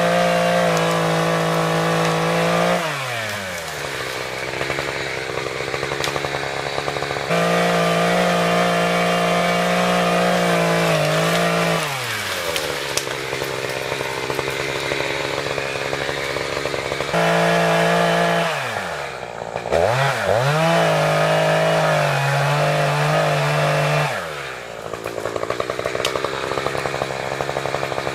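Echo CS-590 two-stroke chainsaw cutting through trees. It is held at full throttle for several seconds at a time and drops back toward idle between cuts, four times. It runs at a lower speed near the end.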